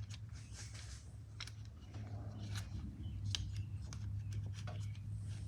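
Irregular light clicks and taps of small plastic handle parts being fitted and handled as the chainsaw's top handle is put back together, over a steady low hum.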